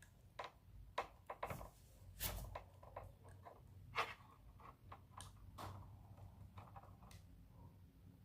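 Faint, scattered clicks and taps from handling a multimeter's test probes and a small solar light's battery and terminals, most of them in the first six seconds and fewer toward the end.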